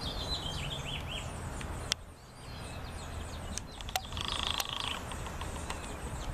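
Small birds chirping over a steady low background hum. A harsh buzzing sound lasts under a second, a little after four seconds in, and there are a few sharp clicks.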